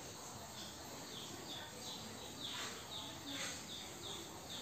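A bird chirping over and over: short, high notes, some dropping in pitch, about three a second, faint.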